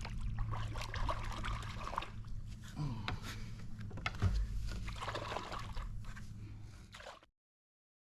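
Water sloshing and splashing at the side of a boat over a low, steady rumble of wind or boat noise, with scattered small knocks. The sound cuts off abruptly to silence a little after seven seconds in.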